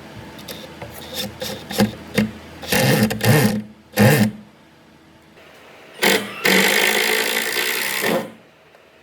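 A hand tool rubbing or scraping on wood: a run of short strokes, then one longer stroke of about two seconds.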